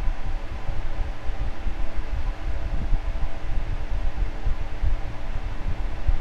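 A fan running steadily: a constant rush of air with an uneven low rumble and a steady hum from its motor.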